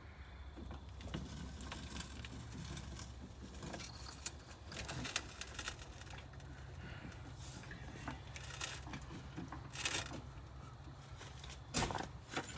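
Scattered light clicks and knocks over a steady low hum as a jacked-up minivan is let down onto bricks, with a couple of sharper knocks near the end.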